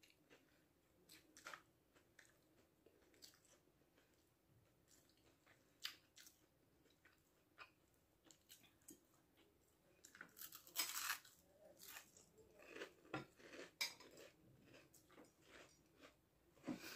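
Quiet chewing and crunching of food eaten by hand, with a few faint clicks scattered through; the crunching comes in a cluster about ten to fourteen seconds in and again near the end.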